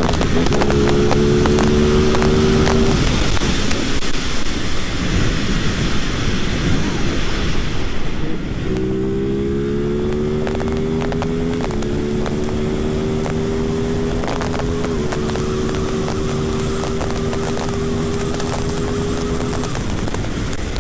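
Ducati Monster SP's 937 cc L-twin, through its stock Termignoni exhaust, accelerating hard through the gears. The engine note climbs steadily and drops briefly at each upshift. A stretch of wind rush without the engine note comes about 3 seconds in, then the engine pulls again from low revs through two more upshifts before cutting off near the end.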